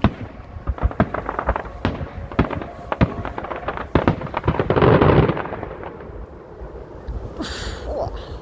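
Fireworks display exploding: a rapid run of sharp bangs and crackles, then a big loud burst about five seconds in, before it eases off with a brief hiss near the end.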